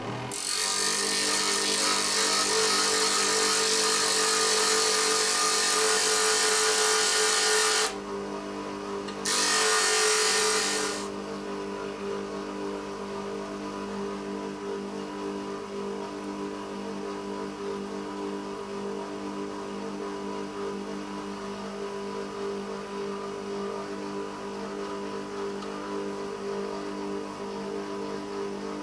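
Electric grinder running steadily, grinding a steel drill bit in two bouts: a long one of about eight seconds, then a short one of about two seconds, with the motor idling in between and afterwards.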